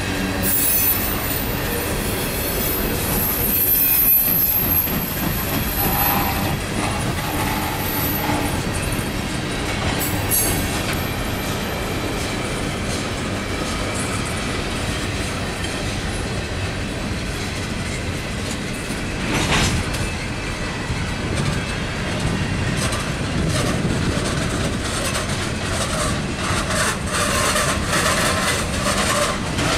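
Loaded freight tank cars rolling past close by: a steady rumble of steel wheels on the rails, with thin high wheel squeals in the first few seconds. Short clacks as the wheels cross rail joints come thicker near the end.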